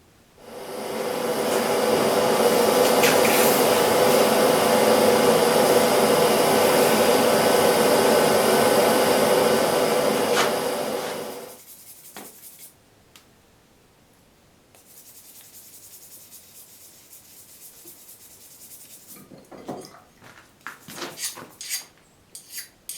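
A loud steady rushing noise runs for about eleven seconds and then dies away. Near the end a file scrapes across a freshly quenched steel arrowhead in short strokes, skating without biting, the sign that the steel has hardened.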